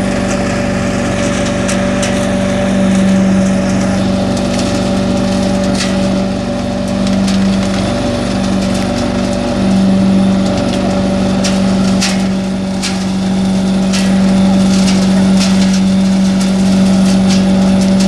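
Industrial debris vacuum running steadily with a constant motor hum, with scattered clicks and knocks throughout.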